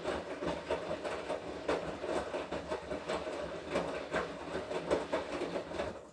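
Washing machine running its wash cycle: the drum turning and tumbling the laundry, a steady hum with a dense, irregular clatter over it. It stops right at the end.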